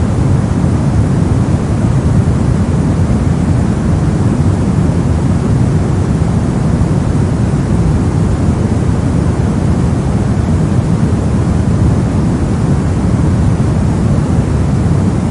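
Brown noise: a steady, unchanging deep rumbling hiss, heaviest in the low end and much softer in the highs.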